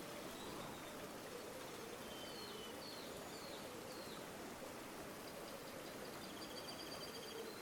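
River water flowing steadily with a gurgling rush. A few short bird chirps come about two to four seconds in, and a rapid bird trill sounds near the end.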